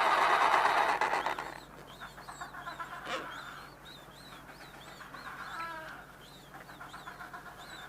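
A loud, harsh noisy sound for about the first second and a half, then birds chirping: many short, high chirps, several a second, with a few lower calls mixed in.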